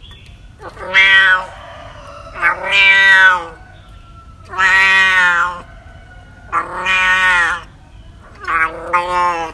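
A cat meowing five times, each meow about a second long, with roughly two seconds between them.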